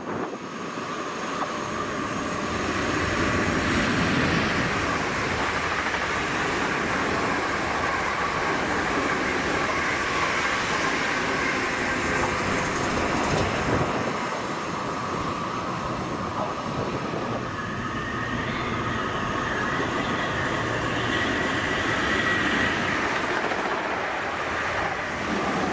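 Electric train running by, a steady rumble of wheels on rails with a high whine held throughout. A second, higher whine rises in pitch near the end.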